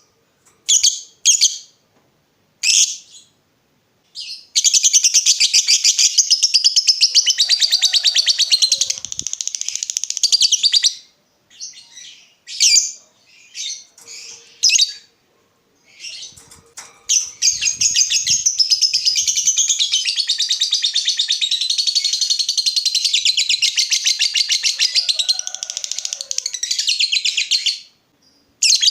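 A lovebird in full song giving its 'ngekek': two long, very rapid chattering trills, the first about six seconds and the second about eleven, with short sharp chirps before, between and after. This long ngekek is the song of a lovebird in top form (gacor), the kind used as a bait call to set other lovebirds singing.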